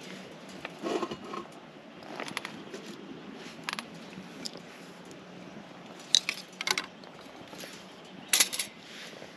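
Irregular clicks and clatters of small hard objects being handled, with the sharpest knocks about six seconds in and again near the end.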